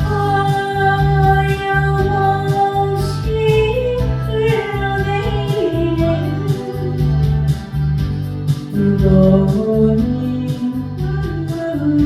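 Trot ballad sung with long held notes that slide between pitches, over a backing track with guitar and a steady beat.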